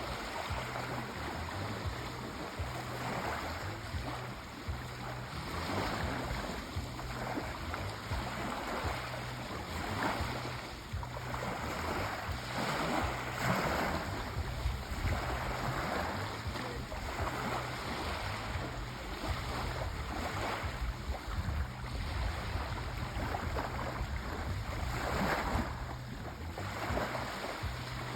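Sea waves washing in and breaking on a shore, a steady rush of surf that swells and fades every few seconds over a low rumble.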